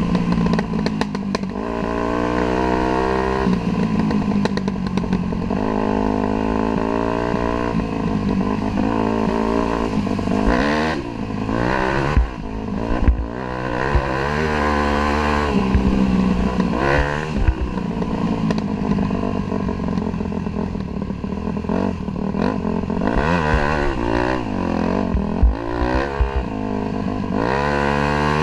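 Dirt bike engine running while being ridden, heard close up from a camera mounted on the bike: the revs climb and drop again and again, fastest and most often in the second half, with rattles and knocks throughout.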